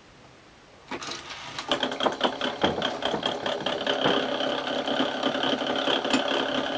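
Panasonic NV366 VHS recorder's deck mechanism starting up about a second in and running with a steady whir and rapid clicking knocks: the replacement rubber tyre, slightly too wide for its groove, has plenty of grip but knocks all the time.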